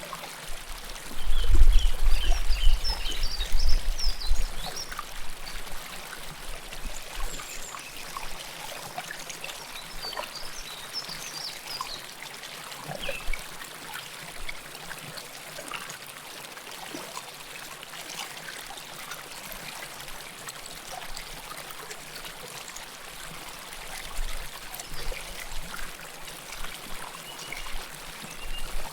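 River water flowing and trickling close to the microphone, a steady rush with bright gurgles. About a second in, a low rumble swells up for some three seconds.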